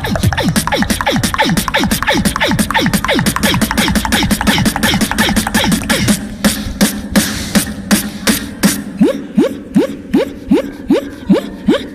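Human beatboxing: sharp mouth clicks and snares under quick rising chirps. About six seconds in it thins to a steadier beat of about two and a half hits a second, each with a rising chirp.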